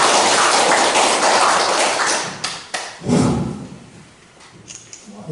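A roomful of people applauding, a dense patter of many hands clapping that dies away about three seconds in, followed by a brief murmur of voices.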